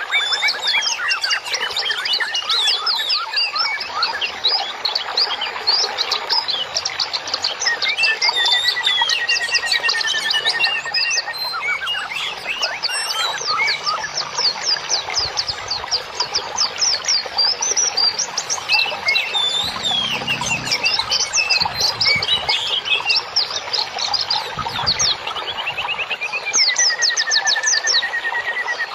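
Dense, continuous songbird chorus: many rapid chirps and trills overlapping, with a longer wavering whistle about a third of the way in and again near the end.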